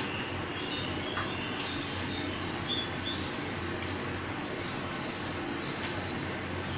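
Recorded rainforest soundscape played inside an elevator car: birds chirping and whistling in many short calls over a steady background hiss and low hum.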